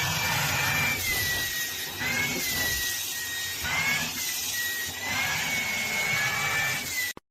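A motor-driven appliance running steadily with a loud hiss and a high whine that dips and rises in pitch several times, cutting off suddenly near the end.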